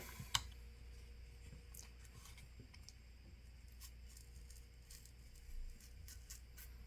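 Faint, scattered light clicks and ticks of plastic opening picks working along the edge of a phone's plastic back cover, prying it away from its adhesive.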